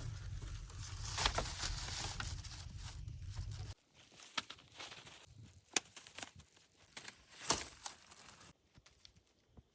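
Rustling and crackling with scattered sharp clicks. A low rumble under it stops abruptly a little under four seconds in, leaving quieter, sparser clicks and rustles.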